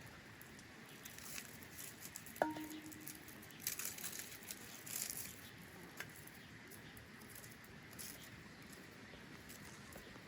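Light handling sounds: scattered small clicks and rustles, with one sharp clink about two and a half seconds in that rings briefly.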